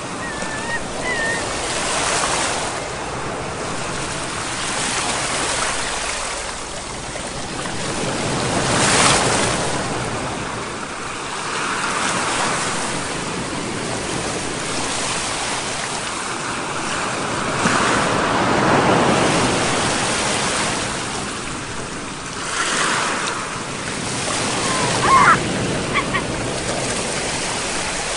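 Ocean waves breaking and washing in, swelling and falling back every several seconds, with a brief high chirp near the end.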